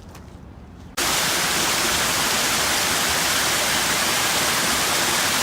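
Steady rushing water of a waterfall, a loud even hiss that cuts in suddenly about a second in.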